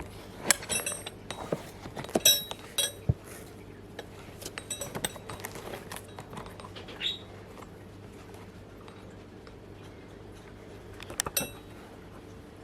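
Metal tools and tent pegs clinking together in a loaded camping tool belt. There are several sharp, ringing clinks in the first three seconds, scattered lighter clicks after them, and another quick cluster of clinks near the end.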